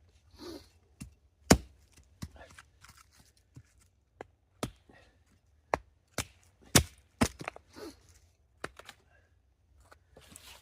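Wood being split into kindling with irregular, sharp chopping strikes, about half a dozen loud ones among quieter knocks. The loudest comes about a second and a half in.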